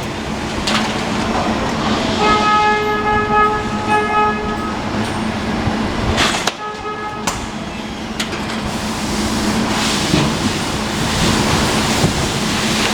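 Automatic carton-sealing machinery on a packing line running with a steady hum and clatter. A pitched, buzzer-like tone sounds for about two and a half seconds a couple of seconds in, and again briefly around the middle.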